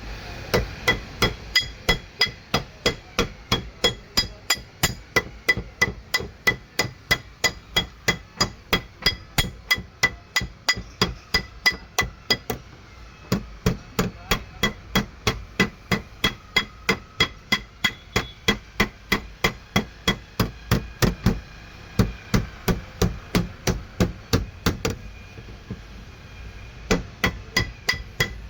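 Hammer striking the sheet metal of a car door in rapid, even taps, about three a second, each with a short metallic ring, as the dent along the door's pressed-in body line is worked out. The hammering stops briefly twice.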